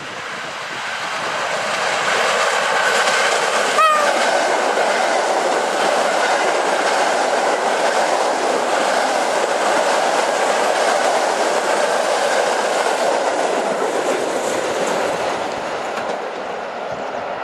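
Three coupled PKP EN57 electric multiple units passing at speed: a steady, loud rush of wheel and rail noise that builds over the first couple of seconds and eases a little near the end as the last car goes by. A brief high tone cuts through about four seconds in.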